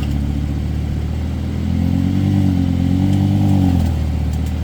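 Lamborghini Huracán's V10 engine idling, with a brief, gentle rev about two seconds in that rises and settles back to idle.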